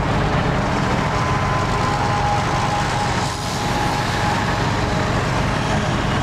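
Off-road 4x4's engine idling steadily, with no revving.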